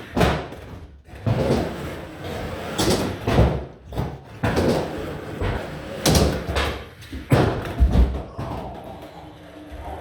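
Skateboard rolling on skatepark ramps, with a series of sharp clacks and thuds from the board and wheels hitting the ramps, about one a second. The heaviest thud comes near the end.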